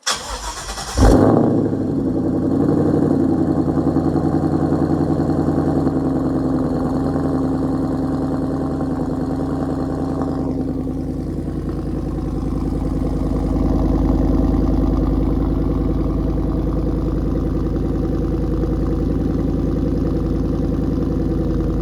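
Ford Mustang engine cold-started: the starter cranks for about a second, the engine catches with a loud surge, then settles into a steady idle.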